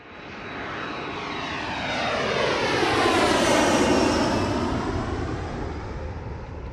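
Jet airplane passing overhead. It grows louder to a peak about halfway through and then fades, with a high whine falling in pitch as it goes by.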